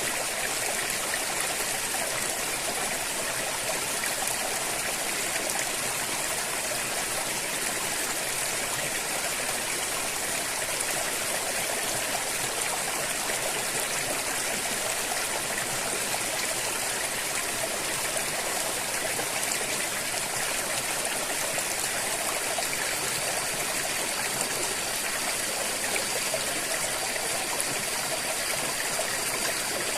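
River water flowing steadily, a constant even rush with no breaks. A faint, thin high-pitched tone comes in about two-thirds of the way through.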